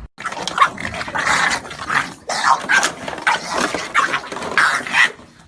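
A dog vocalizing in a string of short, irregular bursts, with a brief break about two seconds in. It stops shortly before the end.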